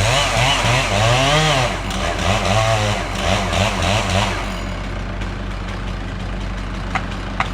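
Chainsaw cutting into a Douglas fir during felling, its engine pitch rising and falling repeatedly for about four seconds before it drops away. A steady low engine hum runs underneath.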